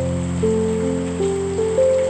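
Soft piano playing slow notes, a new one struck about every half second and each fading away, over a steady hiss of rain.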